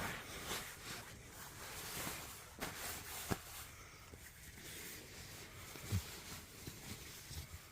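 Fabric rustling and shifting inside a tent, with a few soft knocks and taps scattered through it; the rustling fades toward the end.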